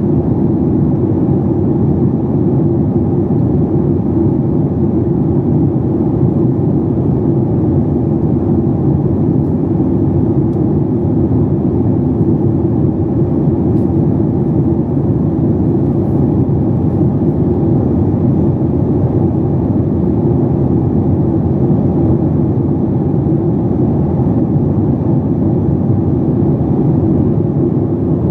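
Steady engine and airflow noise inside the cabin of a Boeing 737 MAX 8, a dense low rumble from its CFM LEAP-1B turbofans with no clear rise or fall.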